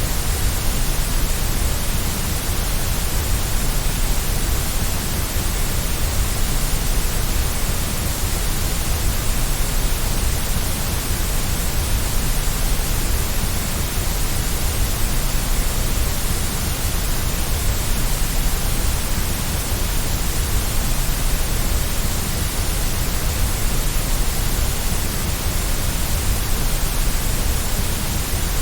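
Steady white noise: an even, unchanging hiss across all pitches, with a slight low rumble, played to soothe a baby to sleep.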